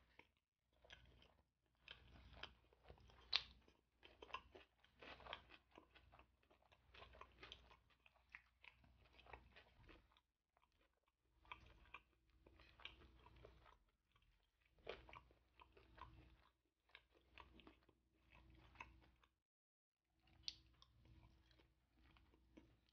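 Faint, close-miked chewing and biting of sauced fried chicken: dense runs of small wet clicks and crunches, broken by two short pauses, one midway and one near the end.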